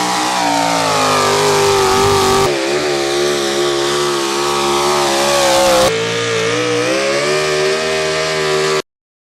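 Modified 4x4 pulling trucks' engines at full throttle: three spliced clips of high revs with slowly wavering pitch, each switching abruptly to the next, the sound cutting off shortly before the end.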